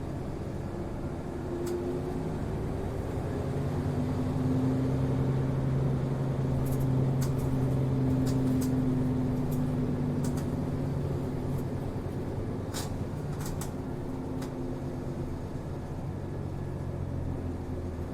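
Inside a city route bus under way: the engine hums steadily with road noise, its note growing louder through the middle as the bus pulls, then easing, with a few faint rattles from the cabin.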